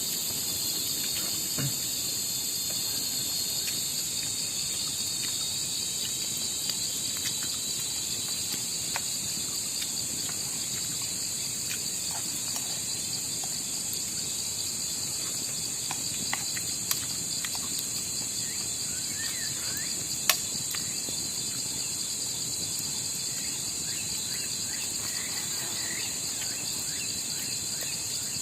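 Steady, high-pitched chorus of night insects such as crickets, with a few faint sharp ticks, the clearest about two-thirds of the way through.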